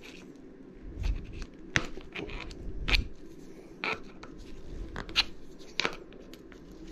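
Hands and small tools handling a bicycle hydraulic disc brake caliper during piston cleaning: a handful of light, separate clicks and scrapes, spread irregularly.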